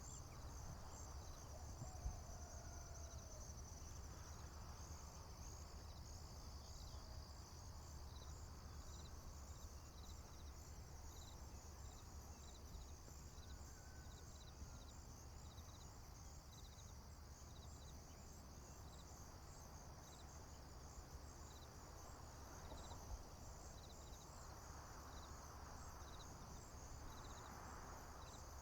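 Faint chorus of crickets: a steady high trill with regularly repeating chirps just beneath it, over a low steady rumble. A few faint, brief whistled notes come and go.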